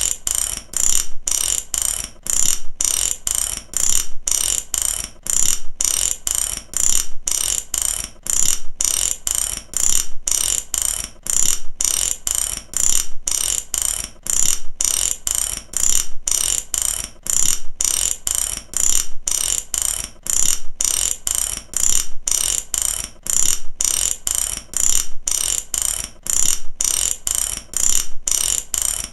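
Mechanical ratchet (matraca) clicking, its pawl snapping over the teeth in short bursts about three every two seconds, repeating evenly with a bright, metallic clatter.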